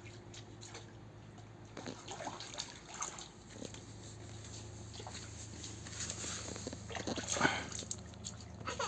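Small splashes and dribbles of water from children playing with rainwater, with scattered short knocks and a few brief child vocal sounds; the loudest burst comes about seven and a half seconds in.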